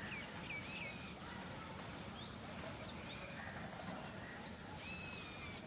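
Birds chirping in short scattered notes, with two longer calls, one about half a second in and one near the end, over a steady high-pitched insect whine.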